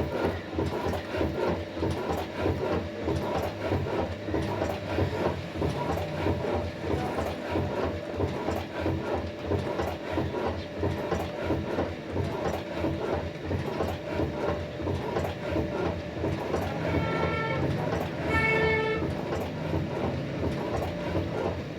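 Old black Ruston Hornsby diesel engine running steadily with a fast, even beat while driving a flour mill. Near the end, two short high-pitched sounds rise briefly above it.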